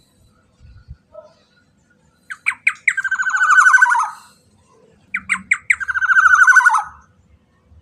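Black-naped oriole (kepodang emas) giving two harsh, grating calls a few seconds apart, each opening with three or four quick short notes and swelling into a drawn-out rasping note.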